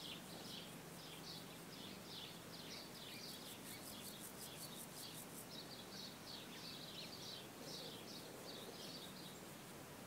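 Faint outdoor background with small birds chirping repeatedly in quick short high notes. A very high, rapid ticking joins for a couple of seconds in the middle.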